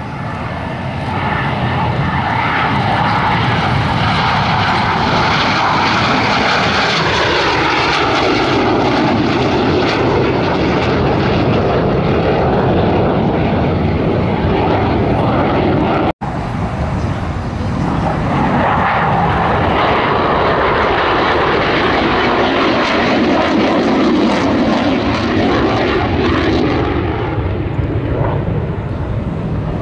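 Display aircraft engine noise as the plane flies past, its pitch sweeping down as it passes. The sound breaks off suddenly about 16 seconds in, then another pass follows with the same falling sweep.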